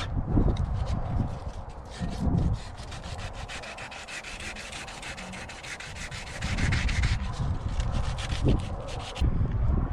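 Rust being scraped off the sheet-metal body of a Mitsubishi L300 van in rapid repeated strokes, which stop about a second before the end.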